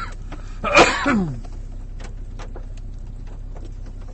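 A short, loud vocal sound falling in pitch about a second in, then a steady low hum with faint scattered clicks.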